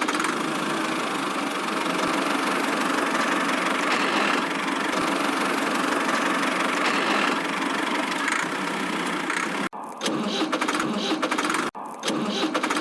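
An engine running steadily, cut off abruptly twice near the end.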